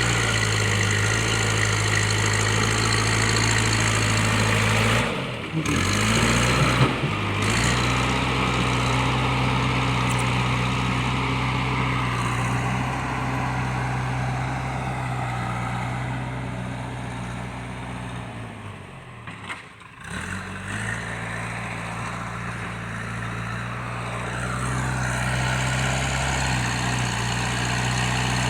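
JCB 3DX backhoe loader's diesel engine running steadily. Its pitch and loudness dip briefly and come back up twice, about five seconds in and again about two-thirds of the way through.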